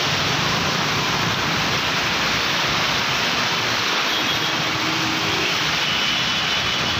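Steady rushing hiss of heavy rain over a flooded street, even throughout, with no speech.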